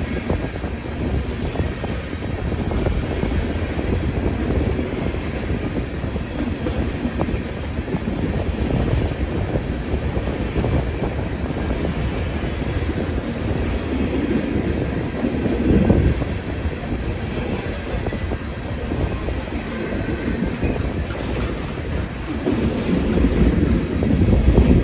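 Train cars rolling past on the rails: a steady rumble of wheels on track, with a couple of louder swells.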